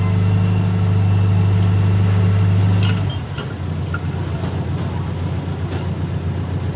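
An engine running steadily with a low hum. About three seconds in it drops slightly and turns rougher and pulsing, with a few light clicks over it.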